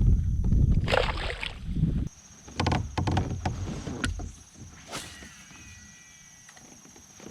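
Handling noise on a fishing kayak: low rumbling bumps for about two seconds, then a run of sharp clicks and knocks, and one more knock about five seconds in.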